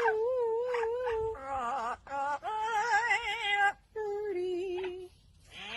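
A high voice singing a tune of held, wavering notes in short phrases, with brief breaks between them.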